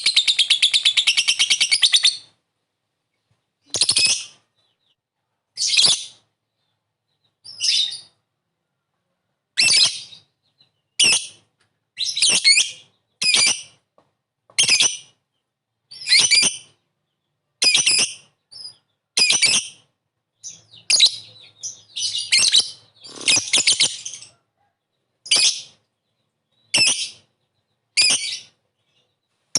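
Lovebird calling: a rapid chattering trill ('ngekek') for about the first two seconds, then short, sharp, high-pitched calls repeating about every second and a half.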